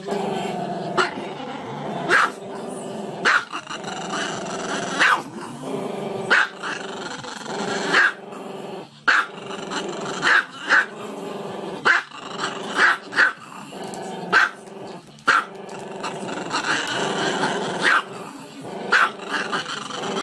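Small black-and-tan dog howling, a continuous wavering howl broken by short, sharp yips about once a second.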